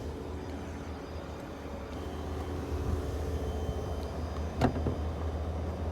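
2020 Cadillac Escalade's 6.2-litre V8 idling steadily and super quiet, its level rising slightly after about two seconds. A single sharp click sounds a little before the end.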